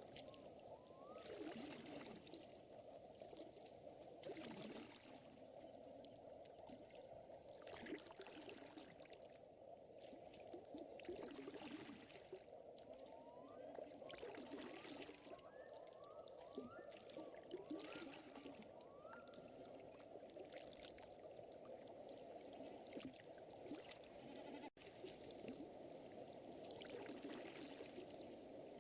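Faint nature ambience of trickling water. Short upward-sliding chirps come and go over it, along with soft swells of rustling hiss.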